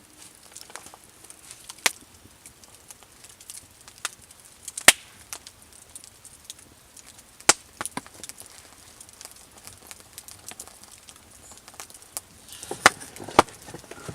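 Wood being chopped: a handful of sharp strikes a few seconds apart, the last two close together near the end, with lighter ticks and crackles between them.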